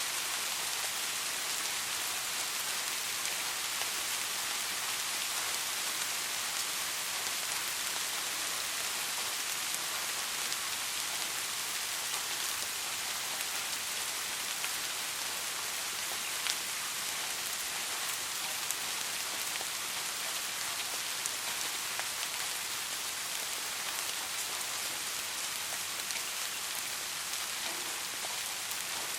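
Steady soft rain falling, an even hiss with occasional sharper single drops striking a surface.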